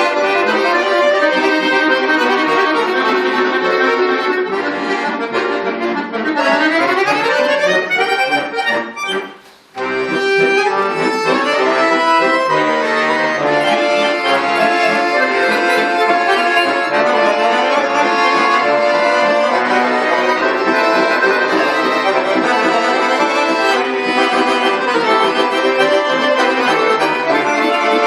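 Bayan, the Russian chromatic button accordion, playing music. Quick rising runs come a few seconds in, and the playing breaks off briefly about nine seconds in before it goes on.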